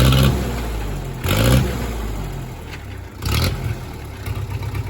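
1963 Case 310 bulldozer's diesel engine blipped three times: at the start, about a second in and about three seconds in. It then settles back into an even idle.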